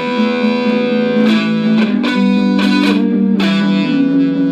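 Instrumental passage of a band's song with no singing: electric guitar through effects and distortion plays held chords, with a few sharp strikes along the way.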